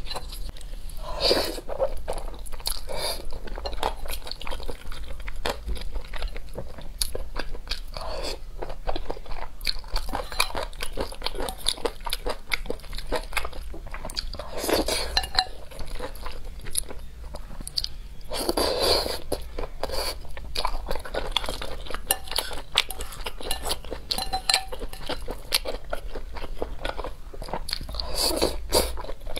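Close-up chewing and biting of mouthfuls of saucy rice, a dense run of small mouth clicks with a few longer, louder bursts now and then.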